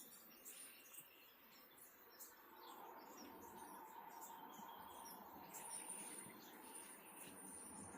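Faint outdoor nature ambience with scattered small bird chirps. A low background rush grows a little louder about three seconds in, and a thin high steady tone joins from a little past the middle.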